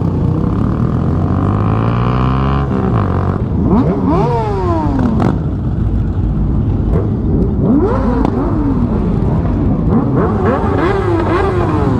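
Honda Grom 125's single-cylinder engine under way, running steadily and then accelerating with its pitch climbing and falling several times through gear changes and throttle roll-offs, with wind rumble.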